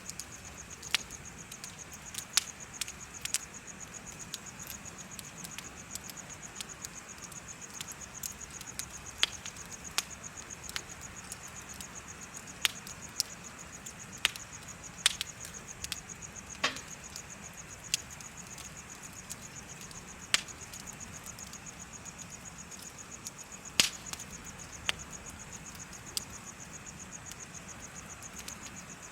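Wood bonfire crackling, with irregular sharp pops and snaps, over crickets chirping in a steady high-pitched trill.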